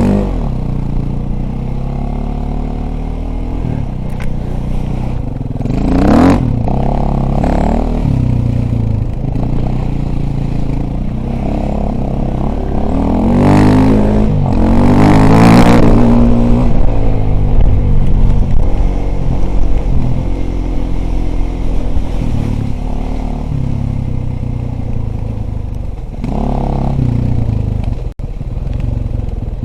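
Dirt bike engine running while being ridden, the revs rising and falling with the throttle, climbing hardest and loudest about halfway through before dropping back.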